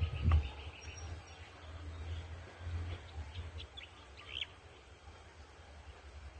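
Faint outdoor bird chirps, a few short calls about halfway through, over a low rumble on the phone's microphone.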